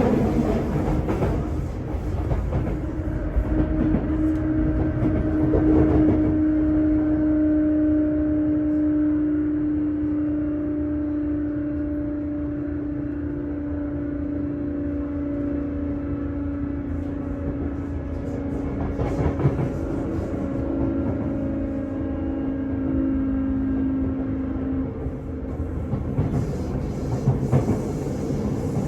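Running noise inside a Sotetsu 8000 series electric train's motor car at speed, with a steady hum from a few seconds in until a few seconds before the end. Wheels click over rail joints a few times, most clearly near the end.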